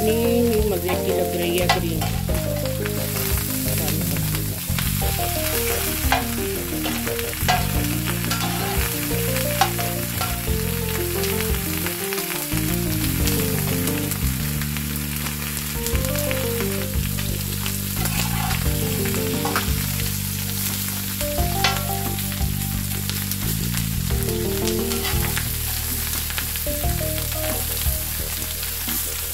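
Chicken pieces and bell pepper strips sizzling on a hot flat tawa griddle, with scattered clicks and scrapes of a metal perforated spoon and slotted spatula against the pan as oil is spooned over them. Background music plays underneath.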